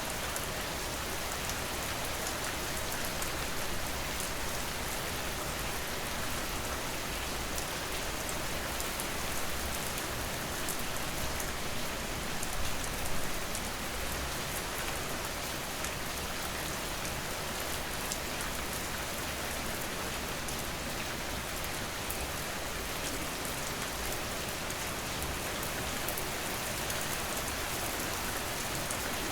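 Steady, heavy rain falling on a surface: a dense, even hiss with fine drop patter, a low rumble beneath, and a brief swell about twelve seconds in.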